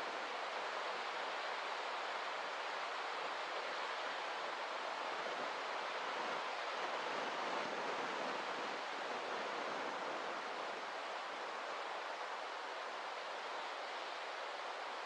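Steady rush of moving water, an even hiss with no distinct splashes or swells.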